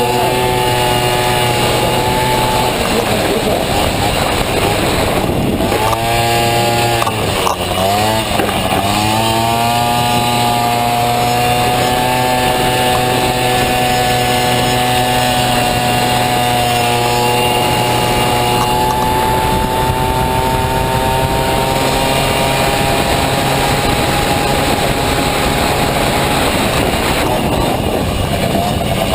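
Honda Dio two-stroke scooter engine in a Honda Motocompo running hard at high revs. About six seconds in the revs drop sharply and then climb back up, then hold almost steady.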